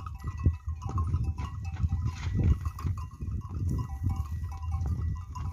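Livestock, goats by their sound, moving about, with heavy low rumbling and knocks and short high ringing notes that recur every fraction of a second.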